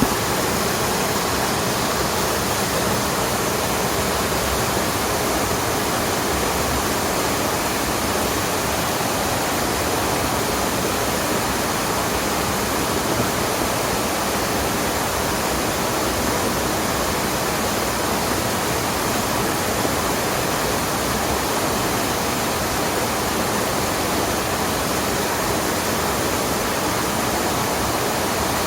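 Mountain stream water rushing over a waterfall: a steady, even wash of noise that does not change.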